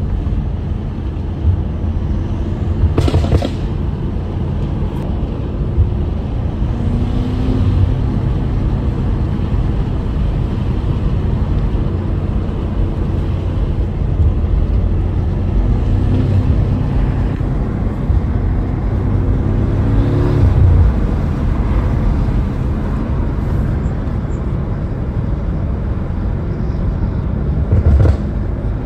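BMW M5 F90's twin-turbo V8, fitted with catless downpipes and open air intakes, running under way and heard from inside the cabin. It pulls up through the revs twice, briefly about seven seconds in and for longer from about sixteen to twenty seconds, with a sharp crack about three seconds in and another near the end.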